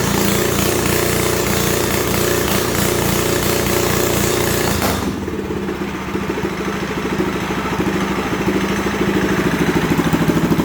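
Small minibike engine running hard at high revs, then dropping suddenly about five seconds in to a lower, rapidly pulsing note that grows louder toward the end.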